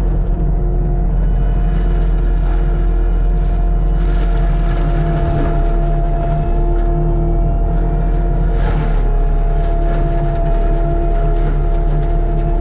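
Diesel engine of heavy land-clearing equipment running steadily at working speed, with a constant whine above the rumble. Rougher noise swells briefly about four seconds in and again past the middle.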